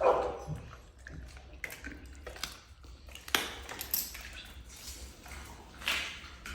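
A dog eating raw food: irregular wet smacks and clicks of chewing and biting, the loudest right at the start.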